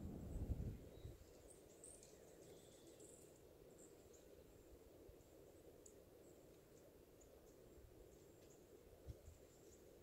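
Faint, scattered short high-pitched bird chirps over near-silent outdoor quiet. A low rumble fades out within the first second, and a brief low thump comes about nine seconds in.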